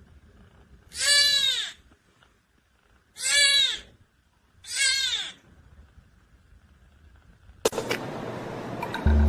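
A cat meowing three times, each meow long and drawn out, rising and falling in pitch, about two seconds apart. A steady noisy sound cuts in suddenly near the end.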